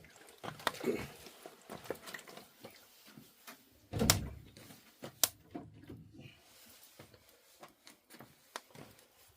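Scattered clicks and knocks of objects being handled indoors, with one heavier thump about four seconds in.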